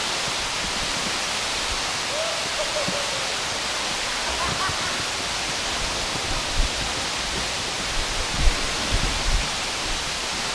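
Large waterfall pouring down, a steady, unbroken rush of falling water. A few brief low bumps come in the later seconds.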